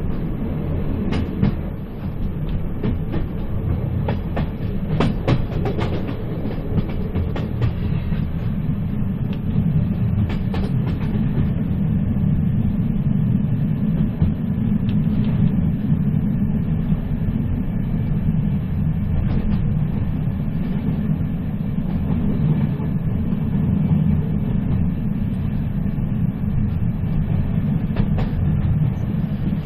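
Running train heard on board: a steady low rumble with scattered clicks and knocks of wheels over rail joints, more of them in the first half.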